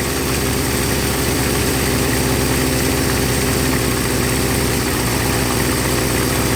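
1975 Honda CB550's air-cooled inline-four engine idling steadily.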